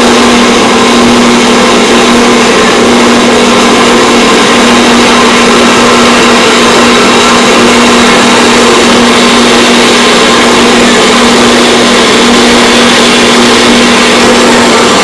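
Metal-cutting band saw running steadily while its blade cuts through a small steel bushing tube. There is a constant motor hum under a loud, even cutting noise, and it changes abruptly right at the end.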